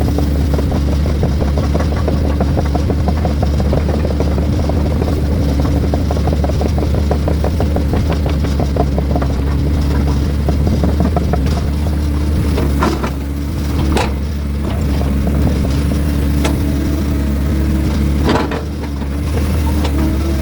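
Heavy diesel engine running steadily, with a few sharp knocks and clanks in the second half.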